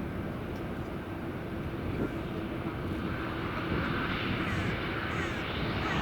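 Jet airliner engines making a steady rushing noise that grows louder through the second half, as the aircraft draws nearer.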